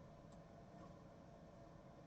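Near silence: room tone with a faint low hiss and one faint tick.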